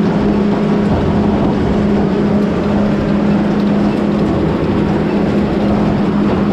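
Loud, steady noise of farm machinery running, with a constant hum over it.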